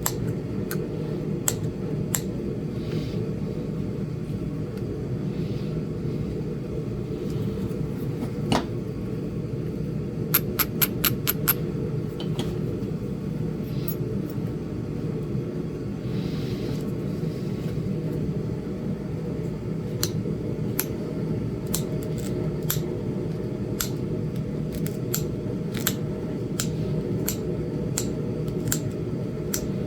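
Small sharp clicks of Flint Ridge chert being knapped into a small point: a quick run of about five clicks some ten seconds in, then roughly two a second through the second half, over a steady low hum.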